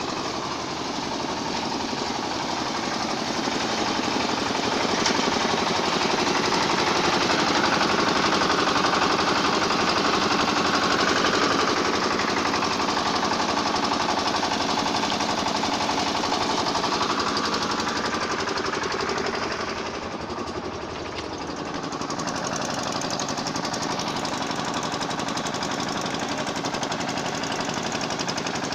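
Carrot washing machine running: a steady, fast mechanical rattle that dips briefly about twenty seconds in.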